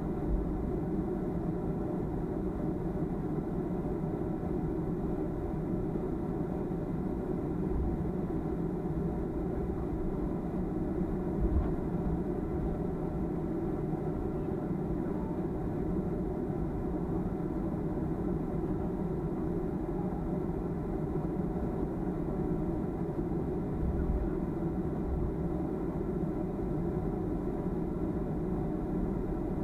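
Steady cabin rumble inside a Boeing 737-300, heard from a window seat: the CFM56-3 engines and airframe produce an even low drone, with a few brief low bumps.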